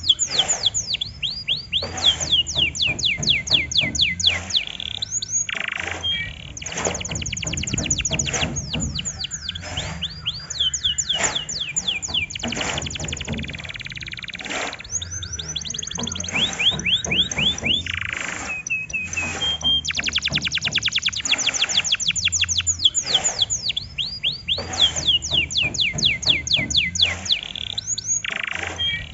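Domestic canary singing, with fast rolls of repeated downward-sweeping whistles broken by short pauses, over a background music track. It is recorded canary song used as a lure to set other canaries singing.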